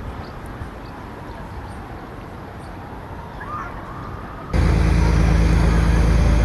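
Quiet outdoor background, then about four and a half seconds in an abrupt switch to a loud, steady, low engine drone.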